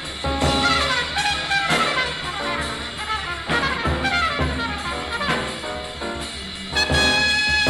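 Bebop jazz from a small combo of trumpet and alto saxophone with piano, bass and drums. The horns play fast runs of notes that sweep up and down over a steady bass pulse, and a high note is held near the end.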